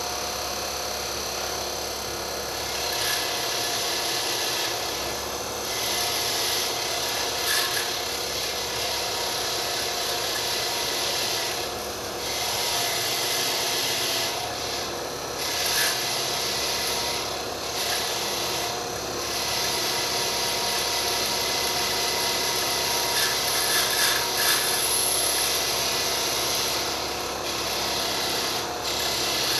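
Wire wheel running with a steady hum, and a rough scratching hiss that comes and goes in stretches of a few seconds as rusty scissor blades are pressed against it and lifted off, stripping the rust.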